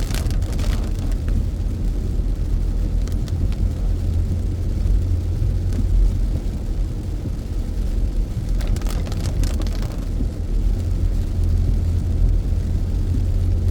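Car driving on a wet back road, heard from inside the cabin: a steady low rumble of tyres and engine, with a brief louder hiss near the start and again about nine seconds in.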